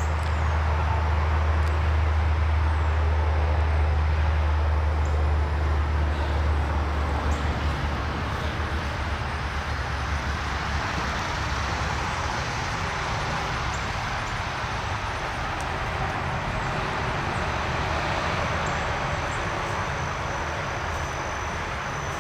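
Steady vehicle-like noise: a deep low rumble, strongest for the first eight seconds or so and then fading, over a constant hiss.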